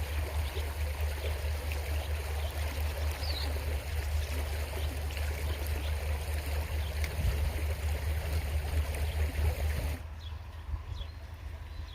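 Small creek flowing steadily, with a steady low rumble underneath. About ten seconds in, the sound drops suddenly to a quieter, duller flow.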